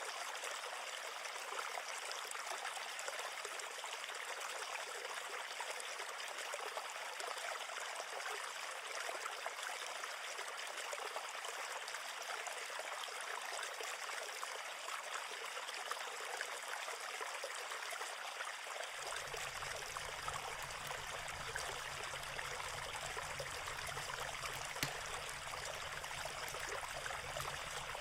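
River or stream water flowing steadily, an even rushing and trickling. A faint low rumble joins about two-thirds of the way in.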